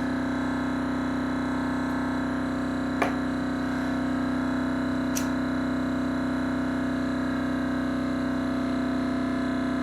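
Thermoacoustic engine sounding one steady, unwavering tone with overtones. A sharp click comes about three seconds in.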